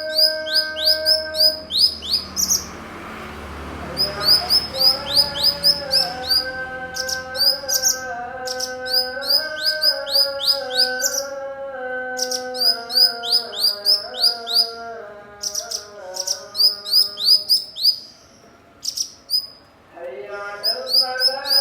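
Cucak cungkok singing fast bursts of sharp, downward-sweeping chirps, broken by short pauses, over background music with a slow, stepping melody.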